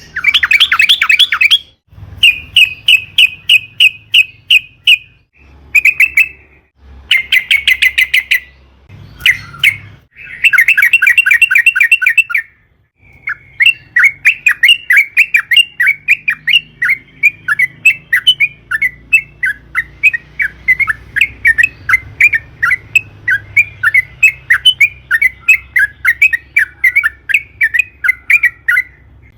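Yellow-vented bulbul (trucukan) singing loudly: several short bursts of quick, bubbling repeated notes with brief gaps, then, about halfway through, one long unbroken run of rapid chattering notes, the drawn-out 'ropel panjang' song.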